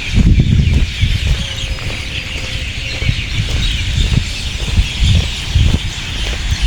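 Uneven low rumble of wind buffeting the microphone, over a steady dense chorus of small birds chirping.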